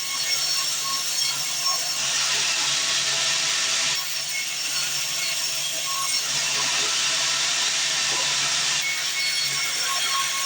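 Band sawmill running, its blade cutting through timber with a steady, loud hiss over a low hum.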